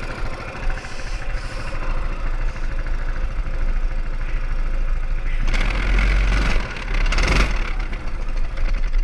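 Mini bike's small engine running steadily, growing louder and rougher for a couple of seconds about two-thirds of the way through.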